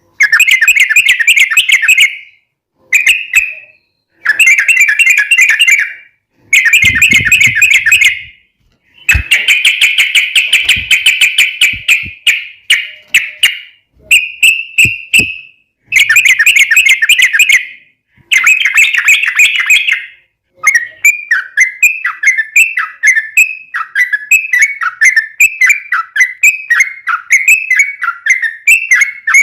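Yellow-vented bulbul (trucukan) singing loudly in rapid chattering bursts of about two seconds, with short pauses between them. In the last third the song turns into an unbroken run of quick, falling whistled notes.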